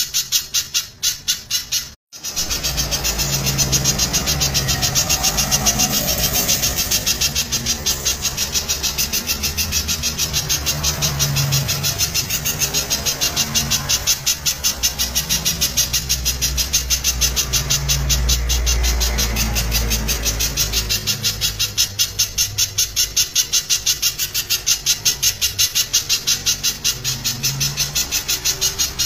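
Spiderhunter (pijantung) calling loudly in a fast, unbroken series of sharp, evenly spaced notes, several a second, with a brief break about two seconds in.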